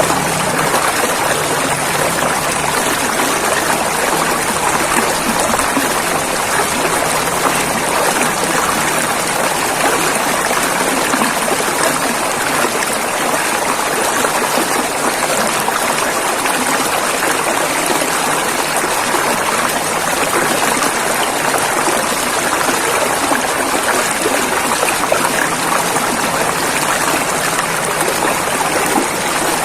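River water flowing and rushing over rocks: a steady, dense splashing that stays even throughout.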